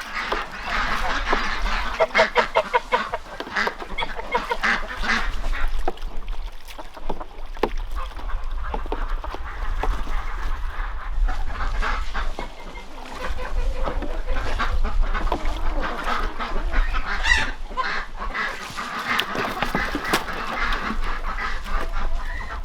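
A flock of domestic geese and ducks honking and quacking without pause, many birds calling over one another, above a steady low rumble.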